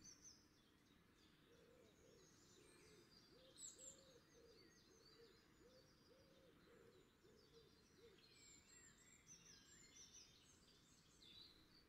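Near silence: faint outdoor background with distant birds calling, a series of soft low hoots and scattered high chirps.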